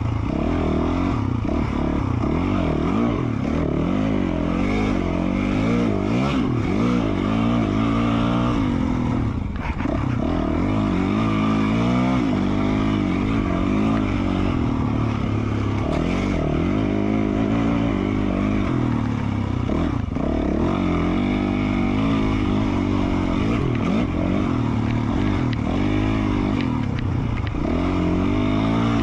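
2020 Yamaha YZ450F single-cylinder four-stroke dirt bike engine with an FMF Q4 slip-on exhaust, revving up and down continuously under riding, its pitch rising and falling every second or two.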